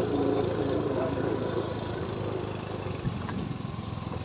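A vehicle engine running steadily, a low even pulsing hum heard while riding. Voices talk over it during the first second or so.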